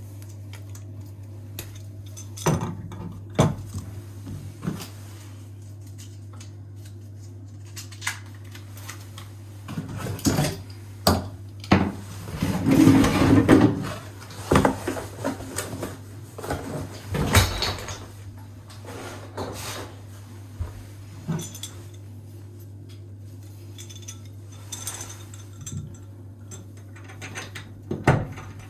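Metal tools and faucet fittings clinking, knocking and rattling as a bathroom faucet is worked on. The knocks come irregularly, with a longer run of clatter about halfway through, over a steady low hum.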